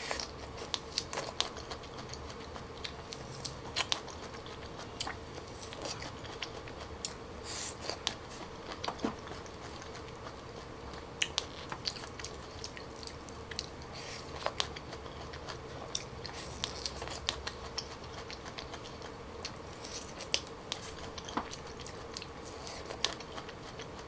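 Close-up eating sounds of a person biting and chewing fresh orange wedges: short, juicy mouth clicks and smacks about every second, over a faint steady hum.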